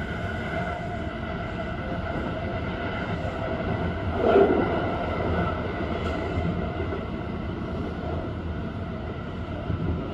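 Kintetsu Urban Liner limited express train running, heard from inside its front car: a steady low rumble with a faint steady whine, and one short louder sound about four seconds in.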